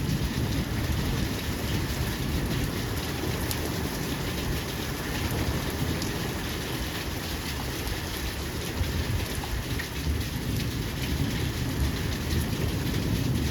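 Steady rain falling, an even hiss with fine patter of drops, over a constant low rumble.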